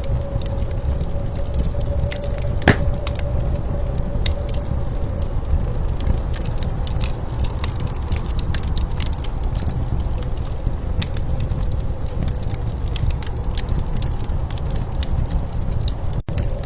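Wood fire crackling with scattered small snaps and one louder pop nearly 3 seconds in, over the steady low rumble of blizzard wind.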